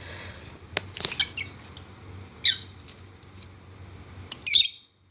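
Lovebirds squabbling: a few short, shrill squawks, the loudest near the end, with some light clicks earlier.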